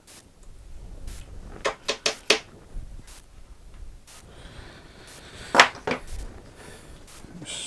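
Wooden pieces being handled and knocked together: four quick sharp knocks about two seconds in, then a single louder knock a little past halfway with a softer one just after.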